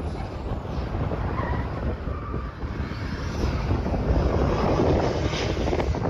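Turbocharged Ford 2.3-litre four-cylinder in a 1963 Volvo Amazon running hard on an autocross course, with wind buffeting the microphone. It grows louder about four seconds in.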